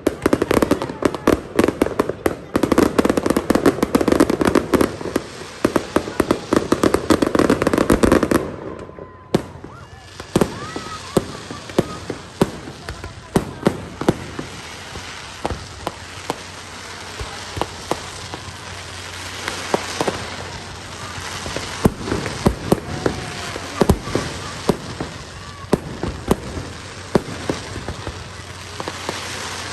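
Fireworks display: a dense barrage of rapid bangs and crackling for about eight seconds, cutting off suddenly, then scattered pops and crackles.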